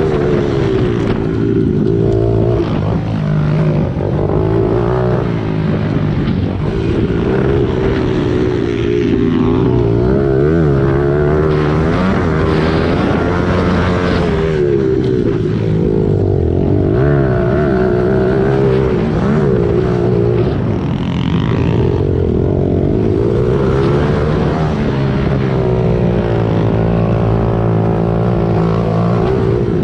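Small single-cylinder four-stroke pit bike engine running hard, its pitch rising and falling again and again as the throttle is opened and closed through the corners and gears.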